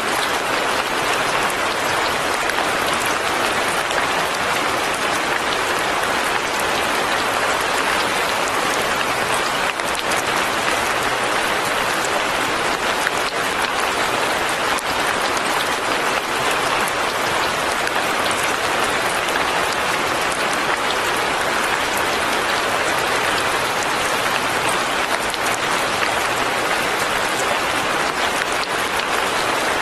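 Light rain falling steadily on a forest cabin and its foliage, a dense, even patter that never lets up.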